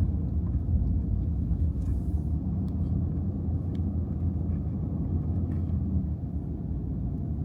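Pickup truck's engine and road noise, a steady low rumble heard from inside the cab while driving, with a few faint ticks.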